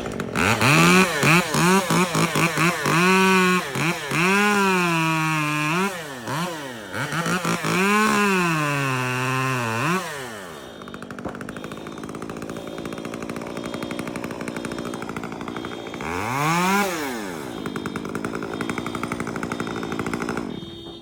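Chainsaw revving up and down over and over, then running more quietly and steadily, with one more rev about two-thirds of the way through.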